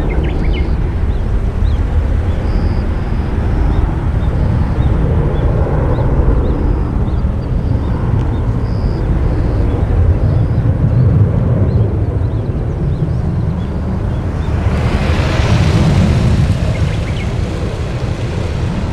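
Boeing 737-800's CFM56 jet engines rumbling steadily, with a louder rushing hiss about fifteen seconds in that lasts a couple of seconds.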